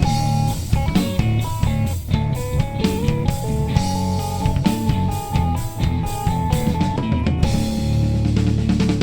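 Live rock band playing an instrumental passage: electric guitar picking a melodic line over bass and drum kit, turning heavier with a dense low chord about seven and a half seconds in.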